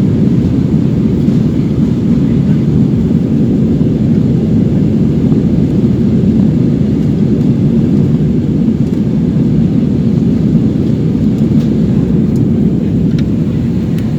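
Steady low roar of a jet airliner's cabin in flight, engine and airflow noise heard from inside the cabin, with a few faint ticks near the end.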